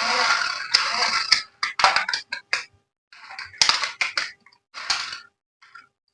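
Packaging being handled and unwrapped: irregular rustling and crinkling in a run of short bursts, loudest in the first second and a half.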